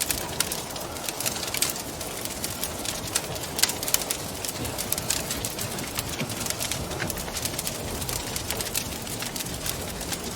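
Wood fire crackling, with many irregular sharp pops and snaps over a steady low rushing of flames and wind.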